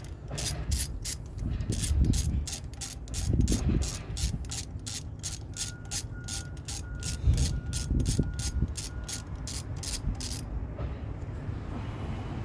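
Hand ratchet wrench clicking in an even series, about three clicks a second, as a bolt is turned. The clicking stops about ten seconds in. A few low knocks sound under it.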